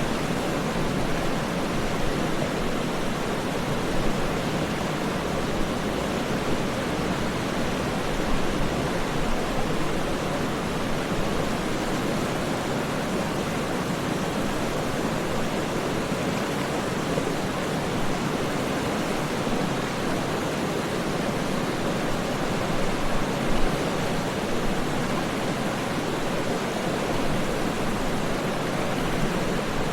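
Waterfall rushing, a steady, even, unbroken noise with no splashes or changes standing out.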